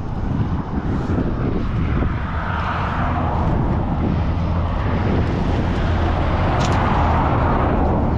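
A vehicle engine running with a steady low hum, and a rush of noise that swells about two to three seconds in and again around seven seconds.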